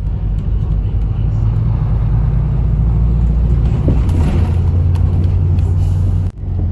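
Steady low rumble of a large engine running, its pitch shifting slightly about four seconds in.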